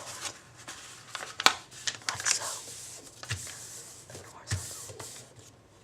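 A sheet of paper being handled and folded close to the microphone: crisp crinkles and short crackling clicks, with a sharp crack about a second and a half in and a couple of soft low taps later on.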